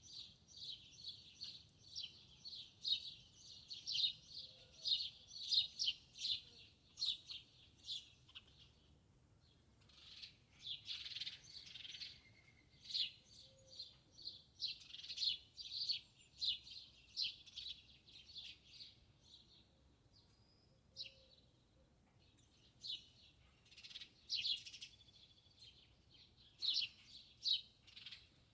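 Small songbirds chirping: runs of rapid, high-pitched chirps with short pauses between them.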